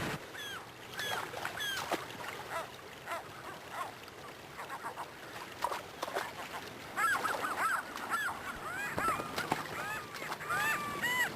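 A flock of birds calling, many short overlapping calls that grow denser and louder about seven seconds in.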